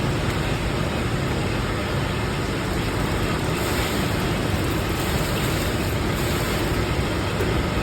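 Steady, even noise of factory machinery running, with no distinct strikes or changes.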